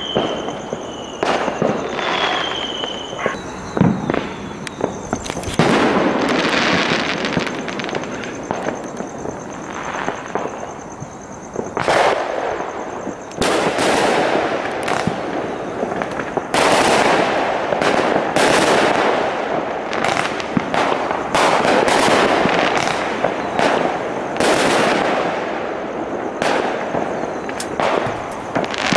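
Fireworks going off all around: a string of bangs and pops, opening with two whistles that fall in pitch, then a dense run of crackling bangs through the second half.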